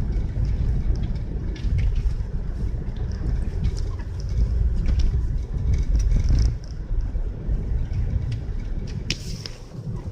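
Car driving through a blizzard: a loud low rumble of road and wind noise that swells and eases in gusts, with scattered light clicks.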